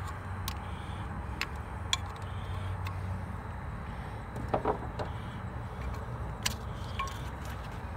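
Scattered sharp clicks and knocks of parts being handled and unplugged in a truck's engine bay, with a small cluster of knocks near the middle, over a steady low hum.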